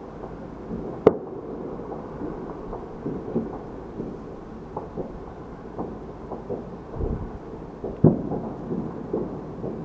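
Fireworks going off all around, heard as a continuous rumble of many irregular muffled bangs and pops, with two sharp, louder bangs about a second in and near the end.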